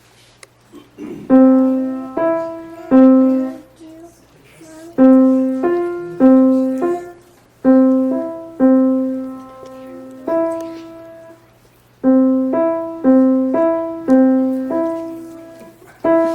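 Piano played one note at a time by a young child: a simple melody in four short phrases of a few separate struck notes, each left to ring and fade, with pauses between the phrases.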